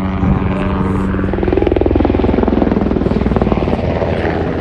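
Helicopter running close by, with a rapid, even chop of the rotor blades over a steady engine hum, growing louder in the middle.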